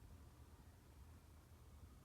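Near silence: faint steady low rumble of room tone.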